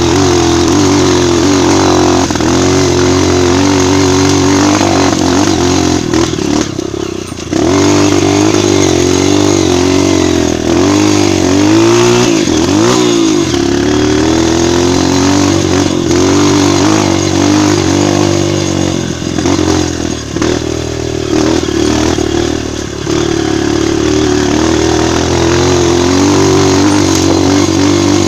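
Single-cylinder four-stroke trail motorcycle running under load on a dirt trail, its revs rising and falling with the throttle. There is a short drop in revs about a quarter of the way in.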